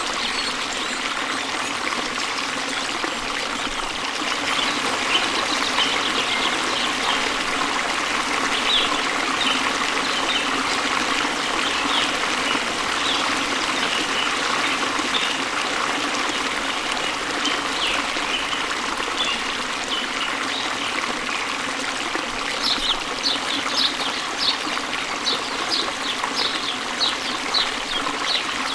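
Stream water babbling and trickling steadily, with small birds chirping high above it; in the last several seconds a bird repeats a quick series of short chirps.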